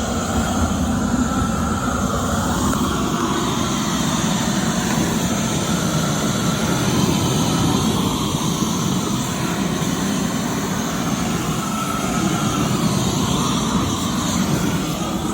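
Loud, steady machine noise from a running power tool or motor, going without a break.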